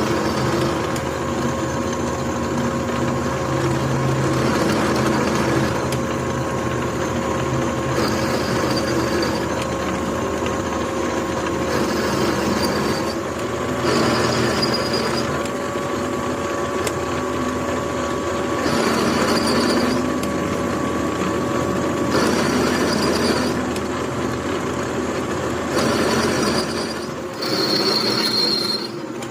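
Workshop machinery running steadily with a steady hum, overlaid by a high-pitched squeal of metal on metal that comes and goes every few seconds.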